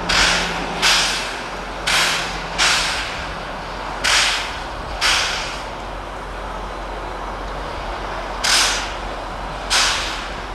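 Steam locomotive exhaust chuffing slowly and unevenly: sharp hissing blasts, mostly in pairs about a second apart with longer pauses between, over a steady low rumble.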